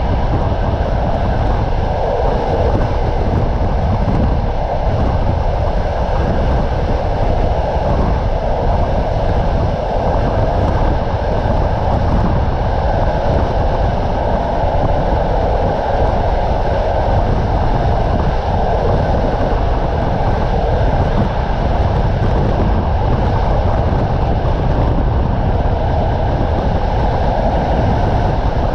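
Passenger train coach running at speed, heard from its window: a steady rumble of wheels on the rails mixed with the rush of passing air.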